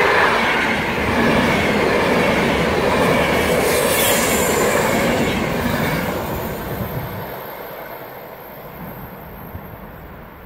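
Intercity passenger train rolling past on the rails, its coaches' wheels and running gear making a loud steady rush. The rear driving car goes by about six seconds in, and the sound then fades steadily as the train draws away.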